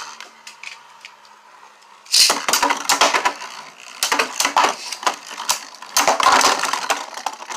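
3D-printed Beyblade spinning tops clashing and scraping against each other in a plastic stadium: fast, irregular clicking and clattering that comes in suddenly about two seconds in, after a quieter stretch, and goes on in dense clusters.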